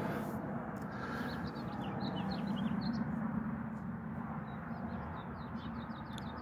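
Small birds chirping: a quick run of short, high chirps starting about a second in and lasting to near the end, over a steady low background hum.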